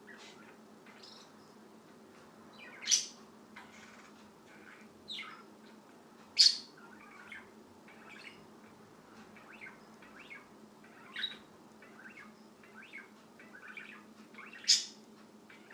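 A bird chirping: three loud, sharp, high calls, about three, six and fifteen seconds in, with softer chirps scattered between them.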